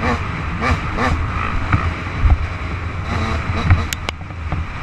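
Off-road quad or dirt-bike engines running, revving up and back down in several quick throttle blips over a steady low rumble.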